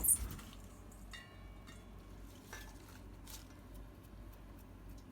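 Ingredients being put into a large metal soup pot: a loud clatter at the start, then a few short ringing metallic clinks.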